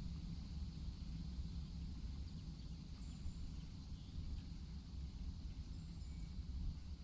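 Quiet outdoor ambience: a steady low rumble with a faint insect-like hiss and a few faint bird chirps.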